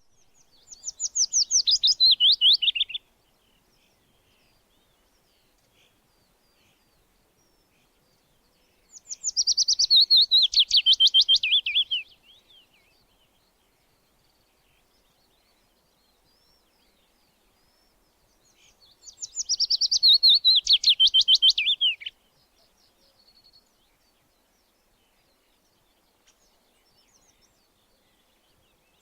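A songbird repeating the same song three times, about ten seconds apart: each song is a rapid run of sharp notes falling in pitch, lasting about three seconds, with faint chirps in the gaps.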